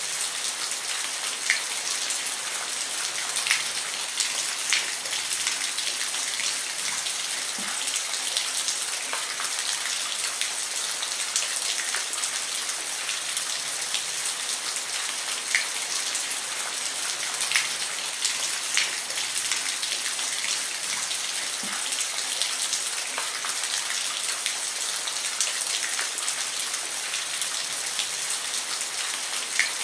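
Steady rain falling on a roof, a continuous hiss with individual drops ticking sharply on the surface every second or so.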